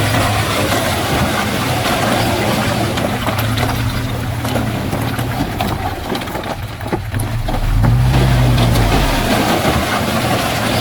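Heavy diesel engine of earthmoving machinery running steadily, rising to a louder, deeper surge about eight seconds in.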